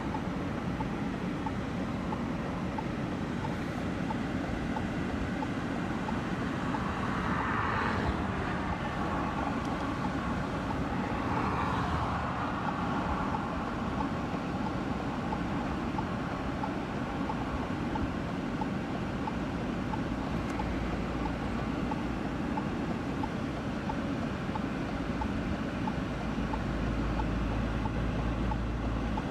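Steady rumbling vehicle and wind noise, with a couple of brief swells in the hiss about a third of the way in.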